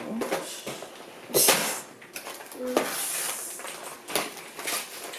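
Scissors and cardboard packaging being handled while a toy box is cut open: irregular clicks, scrapes and rustling, with one louder scrape about a second and a half in.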